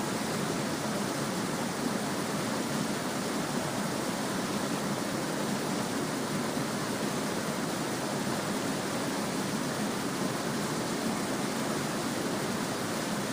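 Small stream babbling, a steady even rush of flowing water with no distinct splashes or other sounds.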